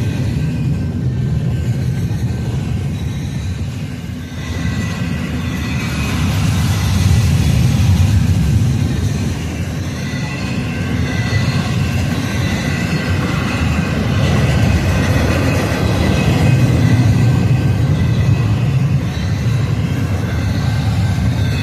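Freight train cars rolling past: a continuous rumble of steel wheels on rail that swells and eases every few seconds, with faint high-pitched wheel squeal.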